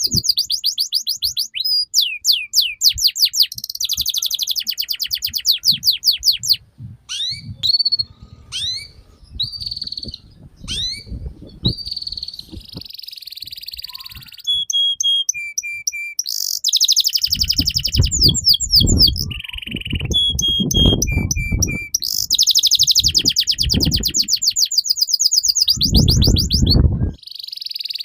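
Domestic canary singing a long, continuous song: rapid repeated trills, runs of quick down-sweeping notes and short clear whistles, broken by brief pauses. A low rumble sits underneath for several seconds in the second half.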